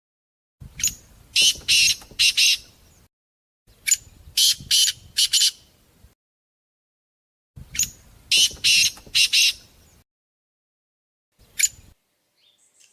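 A bird squawking harshly: three bouts of several loud, rasping calls each, with a short single call near the end.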